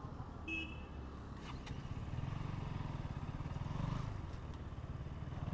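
KTM Duke 200's single-cylinder engine running steadily at low revs, faint and muffled, with a short high tone about half a second in.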